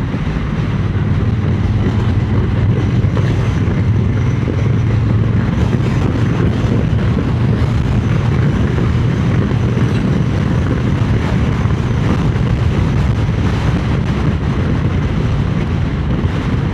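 Triumph Speed Twin 900's parallel-twin engine running steadily while riding, mixed with heavy wind buffeting on the helmet-mounted microphone. The engine note is strongest in the first few seconds.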